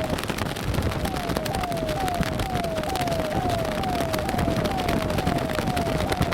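Police siren on a yelp-like cycle: a short falling tone repeated about twice a second, over a low rumble and constant sharp crackling.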